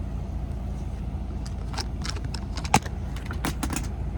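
Semi-truck cab with a steady low engine hum underneath. Over it come a series of short clicks and rattles, like small objects being handled, with one sharp click a little past halfway.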